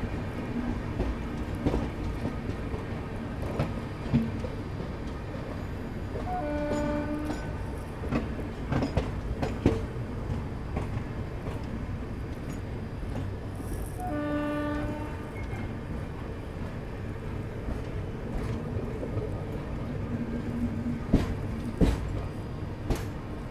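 Train running on the rails: a steady rumble with irregular wheel clicks over rail joints, and a train horn sounding twice, about a second each, some eight seconds apart.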